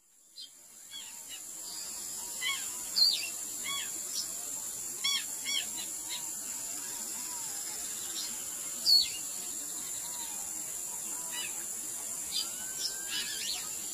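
Birds singing: many short chirps and calls over a steady high hiss, fading in over the first couple of seconds.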